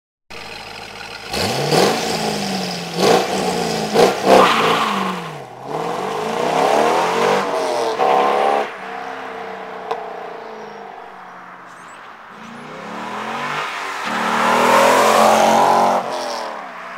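2003 Chevrolet Corvette Z06's stock 5.7-litre LS6 V8 accelerating hard past twice, its pitch climbing as it revs out and dropping at each gear change.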